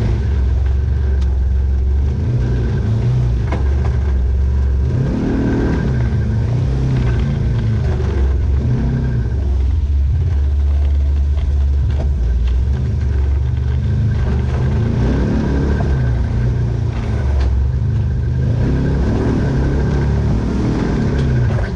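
Off-road vehicle engine running with a steady low rumble, revving up and easing off a few times.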